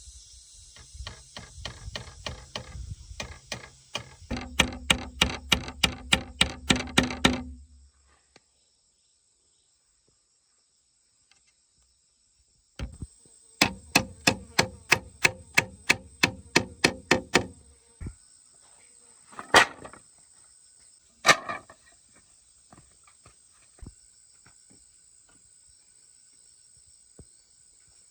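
Two runs of quick, regular blows of a tool on wood, about four strikes a second, each lasting a few seconds, followed by two single heavier knocks.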